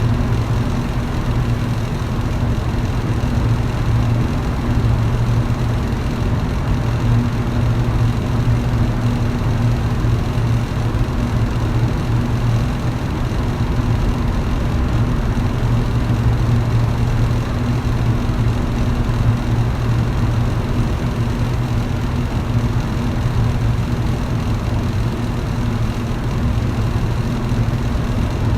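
Electric fan running at a steady speed: a constant motor hum with a rushing air noise, unchanging throughout.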